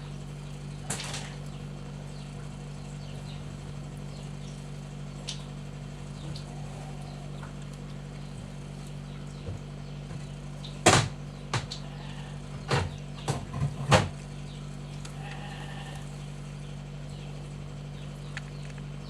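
Faint, high mews from nursing kittens over a steady low hum. A cluster of sharp knocks or clicks, louder than anything else, comes about two-thirds of the way through.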